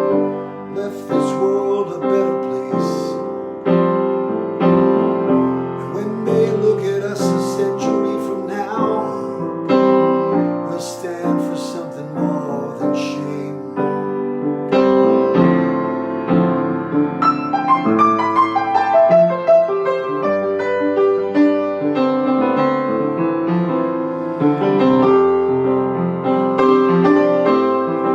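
Piano playing an instrumental passage of a song, struck chords and melody notes, without singing.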